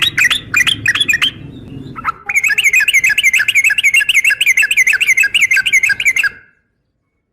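Yellow-vented bulbul (trucukan) giving a long, rapid run of chattering notes, about six a second, in a lure call billed as a female calling a male. A short run, a pause of about a second, then a longer run of some four seconds that cuts off suddenly.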